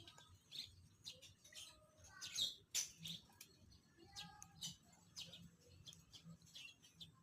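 Lovebird giving faint, short, scattered chirps, a few louder ones about two and a half seconds in.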